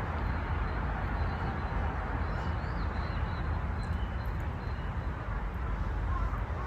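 A few faint, short bird chirps in the middle, over a steady low outdoor rumble.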